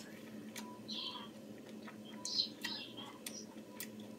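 A person chewing a mouthful of juicy fresh pineapple: scattered wet smacks and mouth clicks over a faint steady hum.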